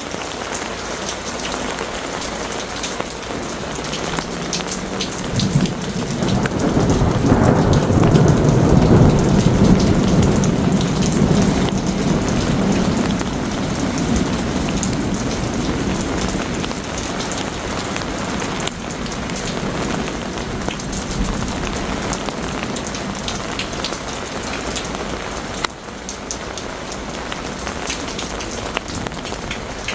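Heavy rain falling steadily during a thunderstorm. A long rumble of thunder builds about five seconds in, peaks, and rolls away over the next ten seconds or so.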